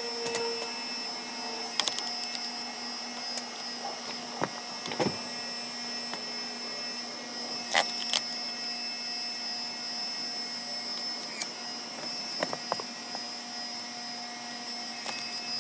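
A steady mechanical hum made of several fixed tones, broken by scattered sharp clicks and knocks, some about two seconds in and a pair near eight seconds.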